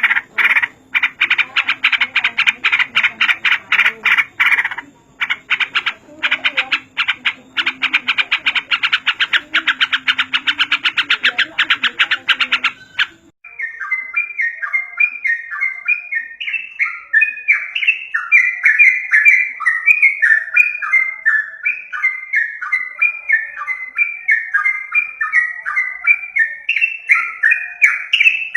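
Recorded yellow-vented bulbul (trucukan) calls played as a lure. First comes fast, harsh, rapid-fire chattering, then about halfway through it switches abruptly to a bubbling song of quick down-slurred notes repeated over and over.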